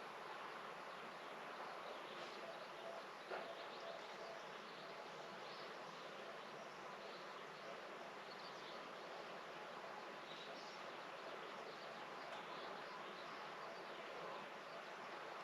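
Faint outdoor garden ambience: a steady hiss with faint high chirps scattered through it, and a single soft click about three seconds in.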